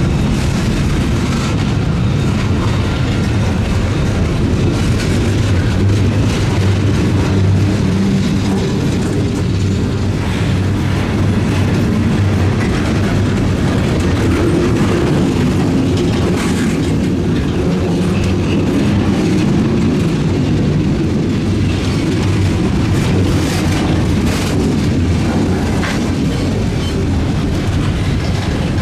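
Freight train rolling past at close range: a steady rumble of wheels on the rails, with scattered clicks and clacks from the wheels passing over rail joints.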